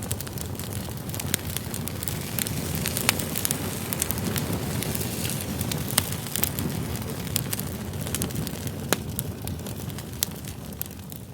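Firewood burning in a campfire: a steady low rumble of flame with frequent sharp crackles and pops from the logs.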